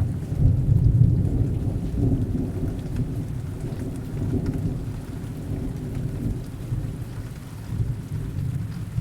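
Heavy rain falling steadily with a long, low roll of distant thunder, loudest in the first couple of seconds and slowly fading away.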